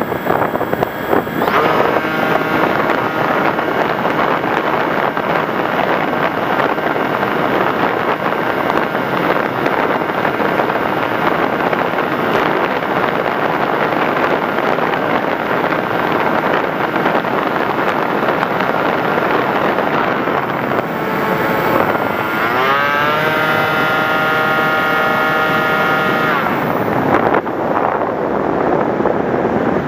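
Electric motor and propeller of an FPV Raptor model airplane whining in flight, under a steady rush of wind over the microphone. About 22 s in the motor pitch climbs sharply as it speeds up, holds high for about four seconds, then drops away.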